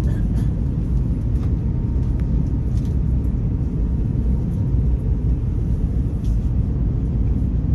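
Jet airliner cabin noise during the climb after takeoff: a steady, loud rumble of engines and airflow, with a few faint clicks.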